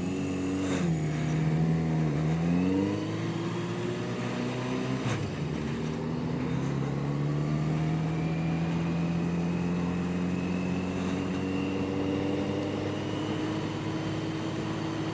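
Yamaha 750 Seca's air-cooled inline-four engine running under way, heard from on the bike. Its pitch dips and comes back up in the first few seconds, then climbs slowly and steadily as the bike gains speed, with a single sharp click about five seconds in.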